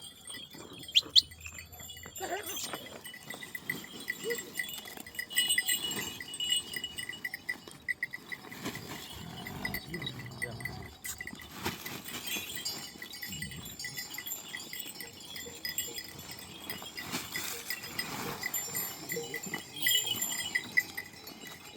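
Flock of sheep and goats with bells on their necks, the bells clinking in a quick, steady rhythm as the animals move.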